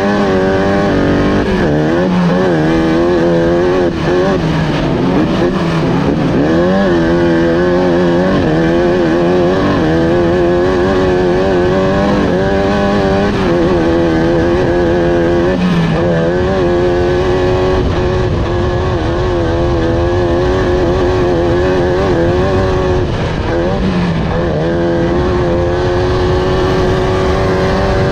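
Off-road race car engine under hard acceleration, its pitch climbing and dropping again and again as it revs, shifts and lifts through the course, at a steady high loudness.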